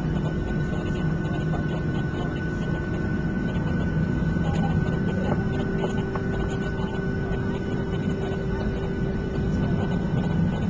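Cabin noise of a Boeing 737-700 taxiing, its CFM56 jet engines at idle: a steady low rumble with a constant whine, and a second steady hum joining about halfway through.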